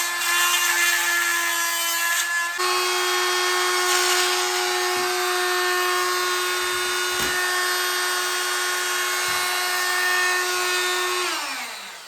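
Oscillating multi-tool running in a steady high whine, its pitch stepping up slightly a couple of seconds in. It is switched off near the end and winds down with a falling pitch.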